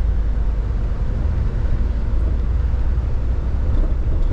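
Box truck's engine and road noise droning steadily, heard inside the closed cab while driving through a tunnel.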